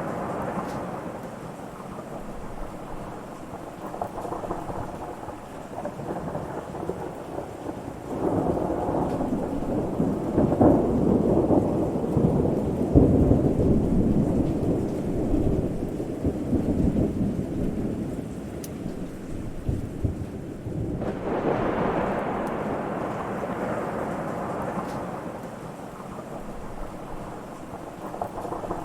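Thunderstorm with rain: long rolling peals of thunder over a steady hiss of rain. One peal builds about a third of the way in, peaks near the middle and dies away; a second starts abruptly about two-thirds through and fades.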